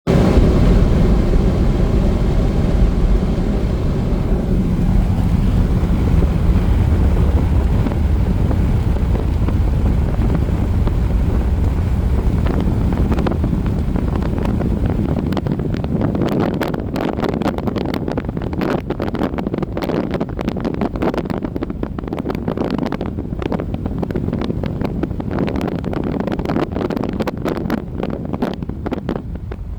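Wind blowing hard with a deep rumble. About halfway through it turns gustier, fluttering unevenly.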